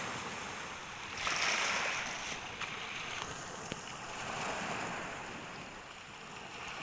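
Sea surf washing onto the shore: a wave swells up about a second in and the wash eases off toward the end.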